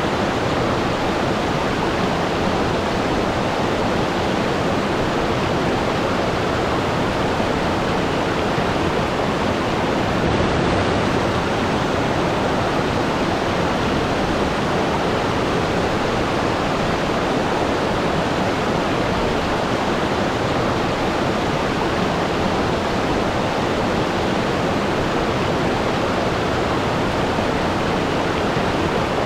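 Waterfall: water falling steadily into a pool, a continuous even rush.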